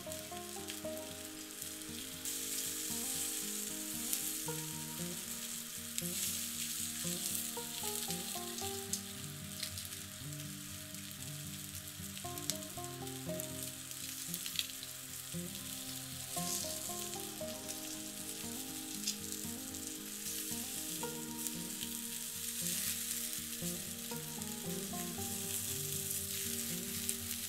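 Food sizzling steadily on high heat, with a few sharp pops and crackles, over background music with a slow melody.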